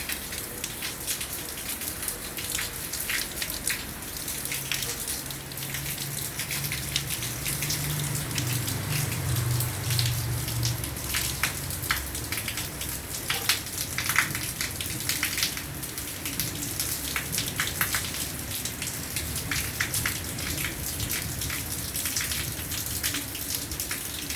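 Rain falling, with many separate drops striking a surface as sharp taps over a steady hiss. A low rumble swells and fades between about five and eleven seconds in.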